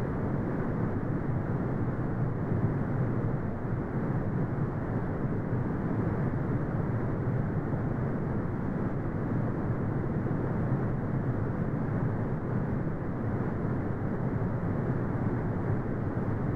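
Continuous brown noise: a steady, deep rumbling hiss with most of its energy in the low frequencies and almost nothing above the mid range, unchanging throughout.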